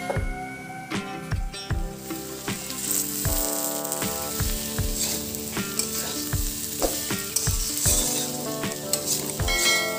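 Potatoes and fenugreek leaves sizzling in hot oil in a kadai while being stirred with a metal spatula.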